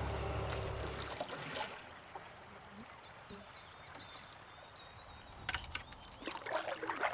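Canoe paddling: a few knocks and splashes of the paddle against the water and hull in the last couple of seconds, after a quiet stretch with faint birds chirping.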